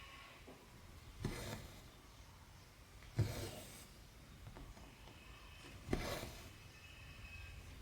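Needle pushed through 14-count cross stitch fabric and the embroidery floss drawn through after it, three times a couple of seconds apart: each a sharp tick followed by a short rasping pull of thread.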